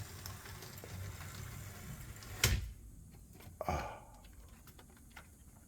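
A sharp knock or click about two and a half seconds in and a softer one about a second later, over a faint low hum.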